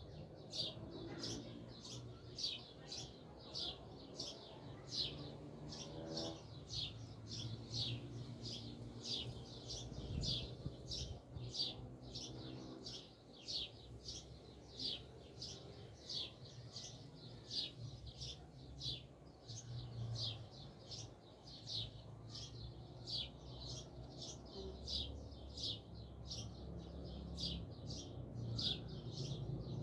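A bird chirping over and over, short falling chirps at a steady two or three a second, over a faint low rumble.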